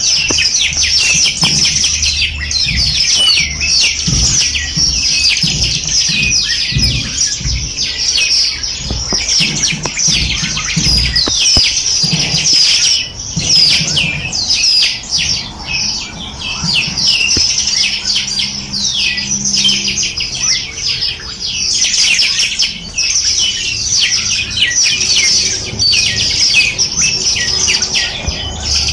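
Dense chorus of many small birds chirping and trilling together, rapid high-pitched notes overlapping without a break.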